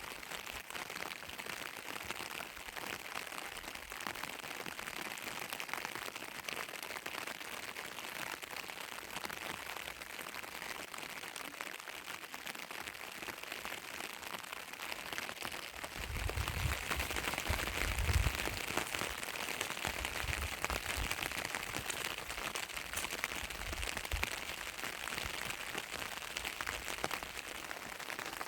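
Steady rain falling. Low rumbling thumps come and go from a little past halfway, for about nine seconds.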